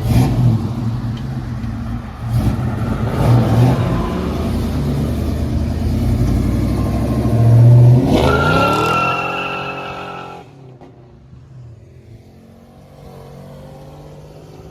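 A loud car engine rumbling close by, then revving up in a rising sweep about eight seconds in as the car accelerates away. The sound fades out about two seconds later, leaving a quieter engine in the background.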